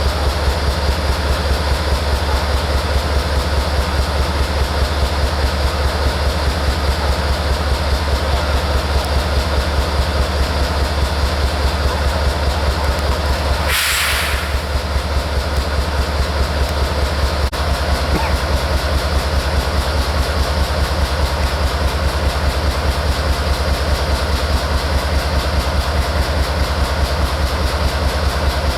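Train running along the track, a steady rumble of wheels on rail. There is one short hiss about fourteen seconds in.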